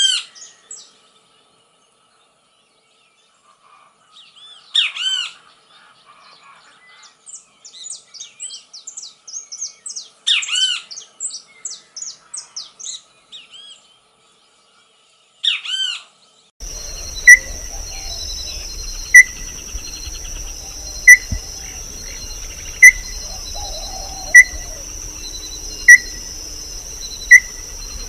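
A songbird singing in separate phrases of quick, arching whistled notes with silent gaps between them. About sixteen seconds in, the sound cuts to a different recording: a steady high insect drone, with a short, sharp call repeating about every second and a half to two seconds.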